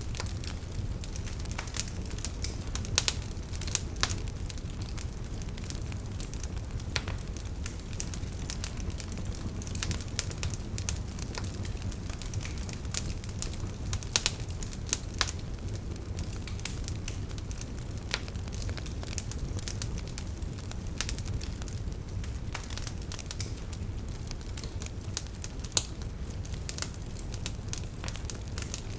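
Campfire of burning firewood crackling steadily, with frequent sharp pops and snaps over a low, steady rumble of the flames; a few louder pops stand out.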